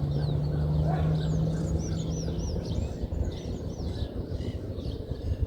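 Small birds chirping and twittering at dusk, including a quick run of four arched whistled notes about two seconds in. A steady low hum runs under them and stops about halfway through, over a low rumble.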